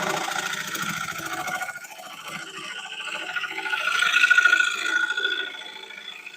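Wood lathe running with a gouge cutting the thin wall of a spinning bowl: a steady scraping hiss that swells to its loudest about four seconds in.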